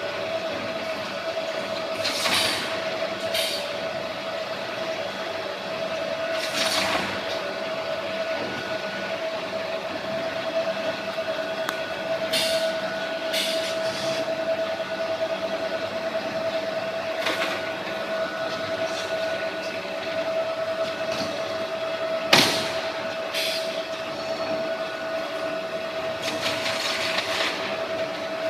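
CF-HM200 polystyrene hot melting compactor running with a steady hum, broken every few seconds by short noisy bursts and, about twenty-two seconds in, by one sharp knock.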